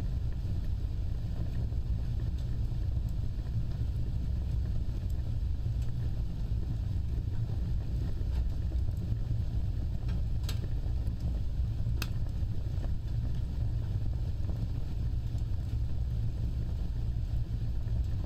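Wood fire burning with a steady low rumble of flames, with two sharp crackles a little past the middle.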